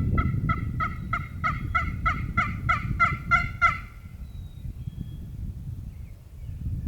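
A series of turkey yelps: about a dozen evenly spaced, pitched notes, roughly three a second, that stop about four seconds in. A low rumble runs underneath.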